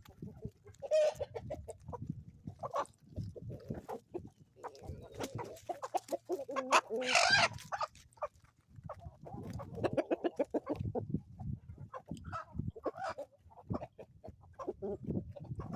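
Chickens clucking over and over, with one louder, longer call about seven seconds in.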